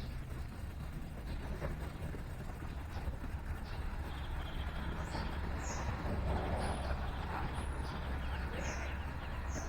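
Short, high bird chirps, several of them and more frequent in the second half, over a steady low rumble of distant city traffic.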